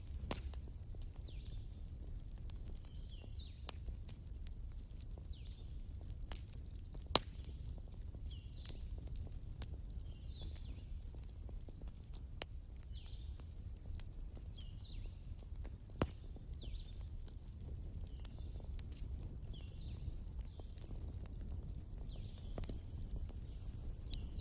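Wood fire crackling, with irregular sharp pops over a steady low rumble; three louder pops stand out. Faint short high chirps recur about once a second.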